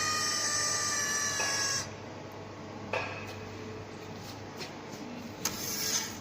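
A laser welding machine gives a steady multi-tone whine that sinks slightly in pitch and cuts off about two seconds in. A click, a few light ticks and a short hiss near the end follow.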